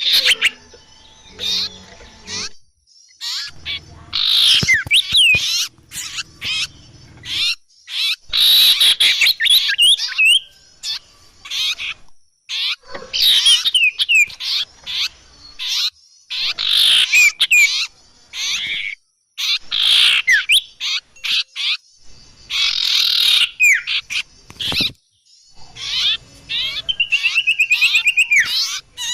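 Bird-lure (pikat) recording: a loud, edited mix of songbird calls, busy chirps, whistles and rapid trills spliced together, with abrupt cuts between segments. Near the end, a fast run of repeated notes at about eight a second.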